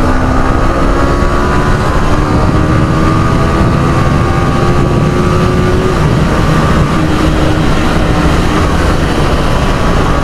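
Yamaha R15 V3's single-cylinder engine running at road speed under steady throttle. Its note rises slowly, then drops around six seconds in, over a heavy rushing wind and road noise.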